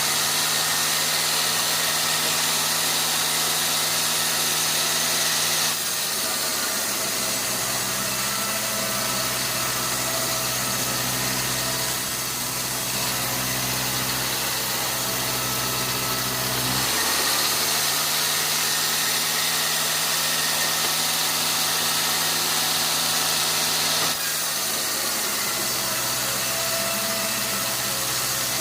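Sawmill machinery running steadily with an engine-like drone. Its pitch drops slightly about six seconds in, returns about seventeen seconds in, and drops again near the end.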